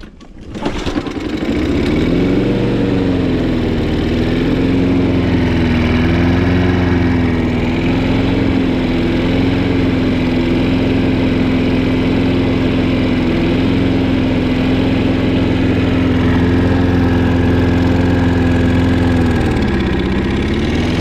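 Toro Recycler push mower's single-cylinder four-stroke engine starting about half a second in, then running steadily, its pitch dipping briefly a couple of seconds in and again near the end. It runs now that debris stuck in the carburetor has been cleared.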